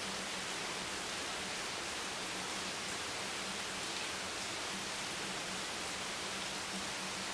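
Steady rain: an even, unbroken hiss of falling water with no single drops or gusts standing out.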